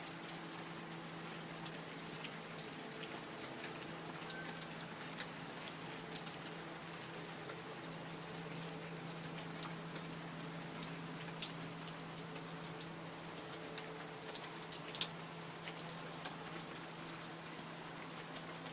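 Steady rain falling, with frequent sharp taps of individual drops landing close by, over a faint steady low hum.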